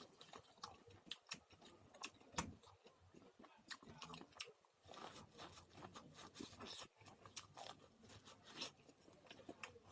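A person chewing popcorn: a steady run of soft, irregular crunches and mouth clicks, one a little louder about two seconds in.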